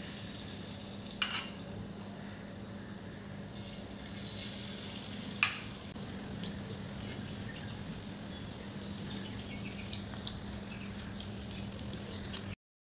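Mung dal pakora batter frying in hot mustard oil, a steady sizzle that grows brighter for a couple of seconds in the middle as more batter goes in. A metal spoon taps sharply against the pan twice, about a second in and again about five seconds in. The sound cuts out briefly just before the end.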